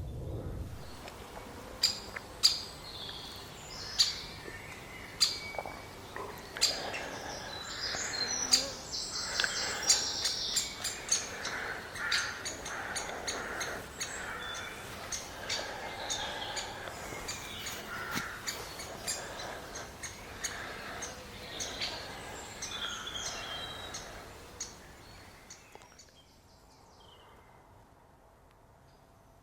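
Birds calling and chirping, with a string of sharp clicks among the calls; it all fades down about 25 seconds in.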